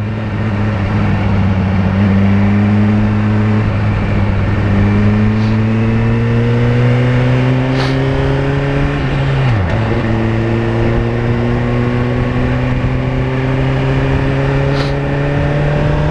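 Suzuki GSX-R1000's inline-four with a Yoshimura exhaust pulling hard under acceleration, its pitch climbing slowly, with a quick drop about four and a half seconds in and again about nine and a half seconds in as it shifts up a gear. Wind rushes steadily underneath.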